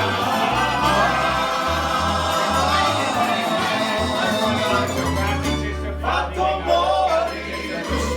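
Croatian tamburitza ensemble playing a folk tune, plucked tamburica strings over a stepping bass line, with several voices singing together.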